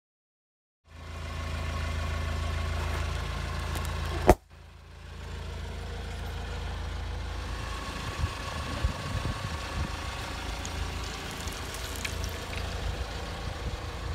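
A car engine idling with a steady low hum, broken about four seconds in by one loud sharp click. The engine then runs on, with scattered low thumps and crackles.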